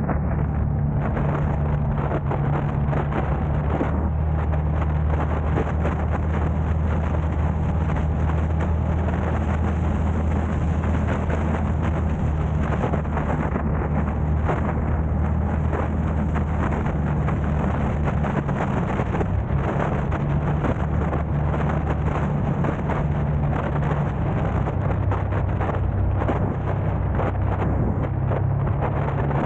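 A car driving: steady low engine and road drone with tyre and wind noise, its low hum shifting slightly about two-thirds of the way through.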